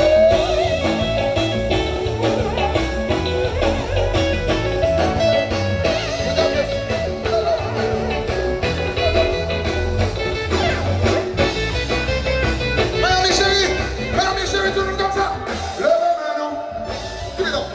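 Live band music, with melodic guitar lines over a heavy bass. The bass drops out for a moment near the end.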